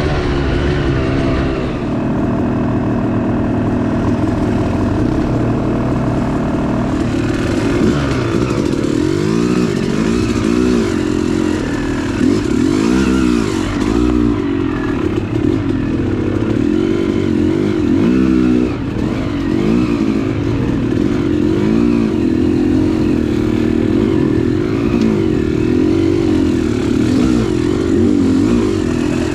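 Dirt bike engine being ridden, its pitch held fairly even for the first several seconds, then rising and falling over and over as the throttle is opened and closed and the gears change.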